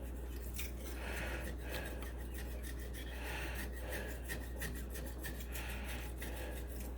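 Razor-blade scraper with a fresh blade scraping leftover silicone residue off aquarium glass, in a quick run of short, repeated strokes.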